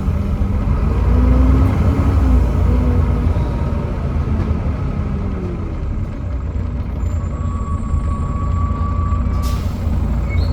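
Volvo B7TL bus's Volvo D7C diesel engine running under way with a steady low rumble. A short hiss comes about nine seconds in.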